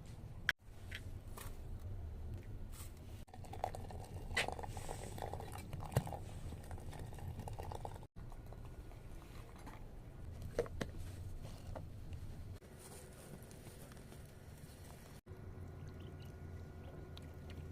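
Light clinks and scrapes of dishes and cutlery being handled, scattered over a low steady hum, with the sound cutting out abruptly a few times.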